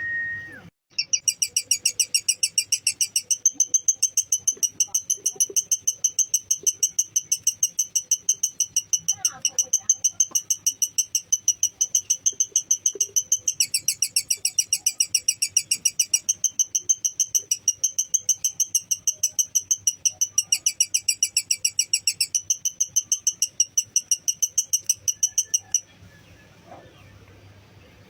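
Lovebird giving a long, rapid, high-pitched chattering trill (the 'ngekek' song). It starts about a second in, shifts pitch a few times, and stops shortly before the end.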